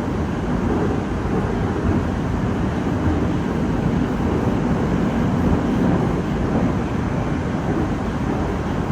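Moskva-2019 metro train running between stations, heard from inside the car: a steady noise of wheels on rails and running gear.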